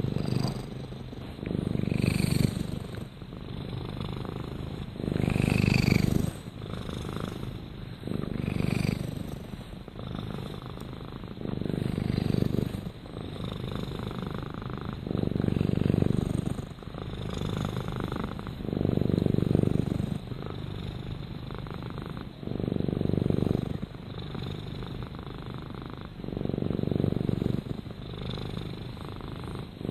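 Domestic cat purring steadily, close up, the purr swelling louder and easing off again every three to four seconds.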